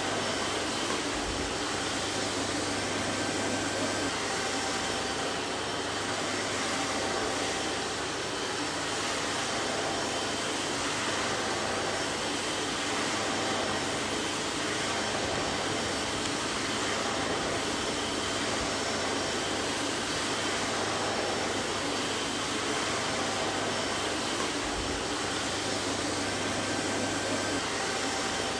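Vacuum cleaner running steadily, a constant rushing hum with a faint whine.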